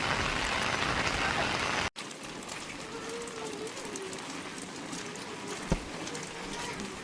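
Heavy rain hissing steadily. About two seconds in, the sound cuts abruptly to lighter, quieter rain with a faint wavering voice in the distance and a single knock near the end.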